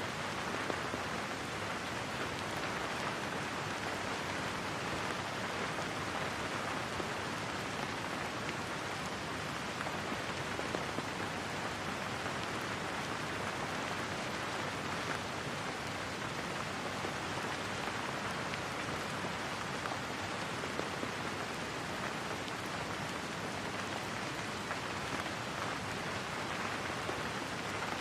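Steady rain falling, an even hiss of drops on a surface with faint scattered pattering, unchanging throughout.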